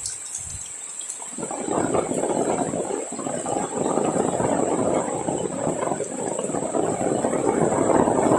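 Heavy rain falling and splashing: a dense hiss of drops that dips briefly and builds back up about a second and a half in. A steady high-pitched tone runs alongside it.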